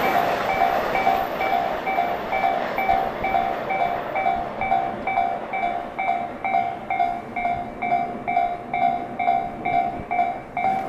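Railway level-crossing warning bell ringing in a steady repeated ding, about two strokes a second, while the rushing noise of a passing electric train fades away over the first few seconds.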